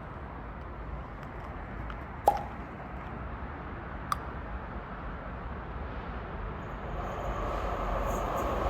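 Steady low trackside rumble with two short clicks, the first with a brief ring; in the last couple of seconds an approaching train's noise rises, with a high metallic whine from the rails.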